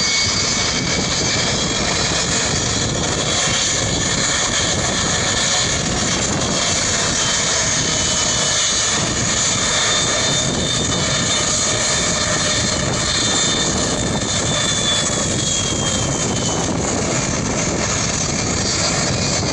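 Boeing 757-300 jet engines running loud and steady, with a thin high whine over the engine noise that drifts slightly lower about two-thirds of the way through.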